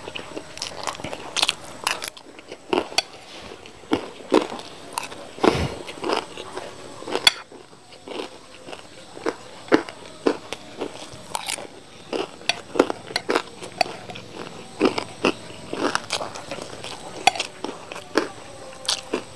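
Close-miked crunchy chewing of fried rice with small round flour crackers and kerupuk. It is a run of sharp, irregular crunches.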